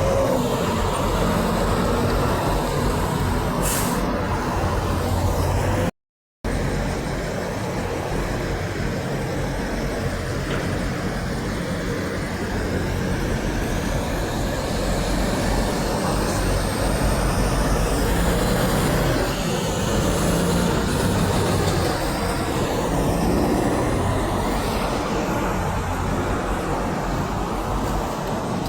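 Steady highway traffic noise from semi trucks passing: engine rumble and tyre noise, with no horn blast. The sound drops out for about half a second around six seconds in.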